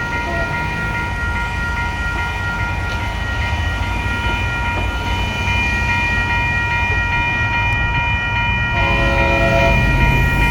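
Grade-crossing warning bell ringing steadily as an MBTA F40PH-3C diesel locomotive approaches, its low engine rumble slowly growing louder. A short horn blast sounds about nine seconds in.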